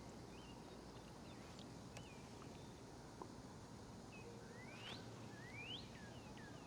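Faint birds chirping: short falling chirps throughout, with two rising whistles about five seconds in.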